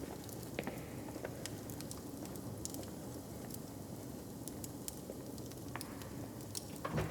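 Hearth fire crackling, with irregular small pops and snaps over a steady low background rumble, and one louder knock near the end.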